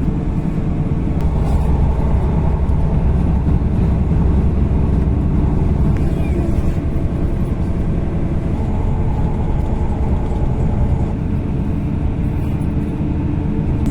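Passenger train running at speed, heard from inside the carriage: a steady low rumble of wheels on the rails, with a faint steady hum from the train's drive.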